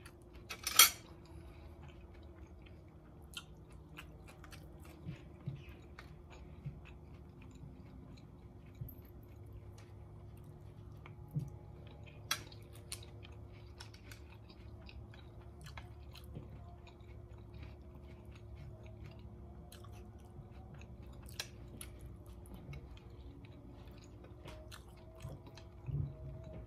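Close-up chewing and mouth sounds of a person eating crunchy food, with a loud crisp crunch about a second in, then scattered small crunches and clicks. A faint steady hum lies underneath.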